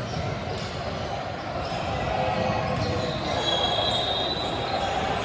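Basketball bouncing on a hardwood gym court during play, repeated low thuds over the hall's background din, with a brief high squeak about three and a half seconds in.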